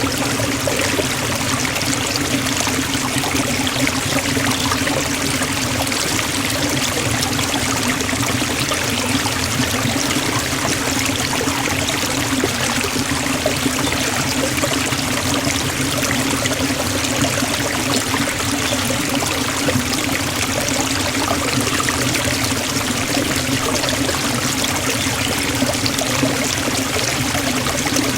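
Forest waterfall: water falling and splashing into a pool in a steady, unbroken rush, with a low rumble under the hiss.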